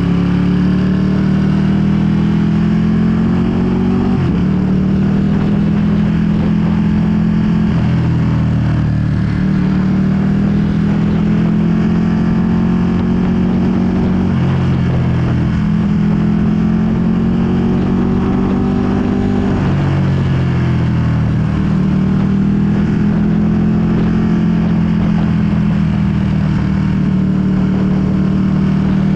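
2020 Ducati Panigale V2's 955 cc L-twin engine running through a full Akrapovic exhaust as the bike accelerates up through the gears. The engine note climbs slowly and drops at each of about four upshifts.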